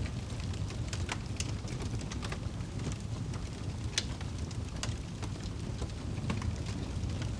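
Wood fire burning in a fireplace: a steady low rumble of flames with irregular crackles and pops, one sharper pop about four seconds in.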